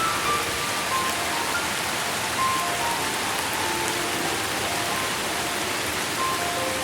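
Steady, even rain, with a slow, soft melody of single notes played over it as relaxation music.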